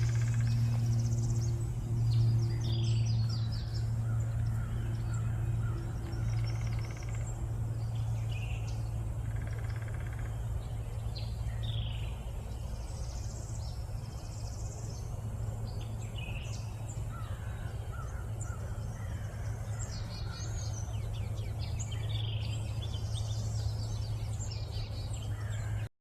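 Several wild birds singing and calling in brush and young trees, overlapping chirps, trills and short call notes, over a steady low hum.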